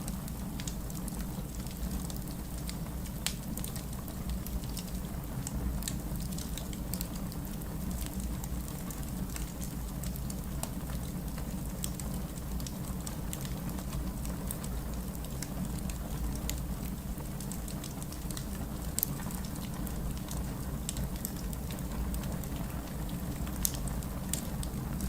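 Steady rain blended with a wood fire crackling, sharp pops scattered through a continuous low hiss and rumble.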